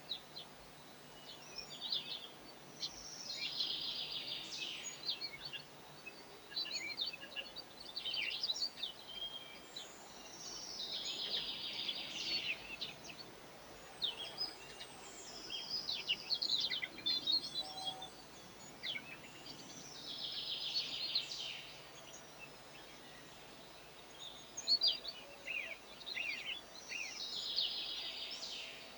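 Garden songbirds singing: a fast trilled song phrase repeated about every eight seconds, with many short high chirps from other birds in between.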